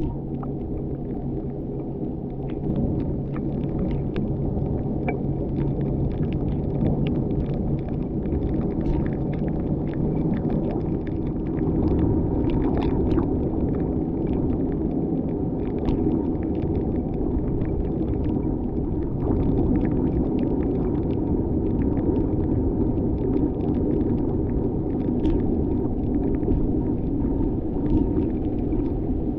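Car driving on a wet road: a steady low rumble of engine and tyre noise with a faint engine hum, and scattered light ticks throughout.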